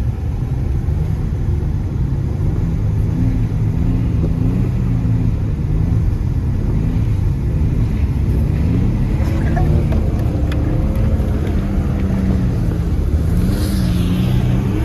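Ford Ranger pickup's engine running under changing throttle while the truck is driven and slid in snow, its pitch rising and falling over a steady low rumble.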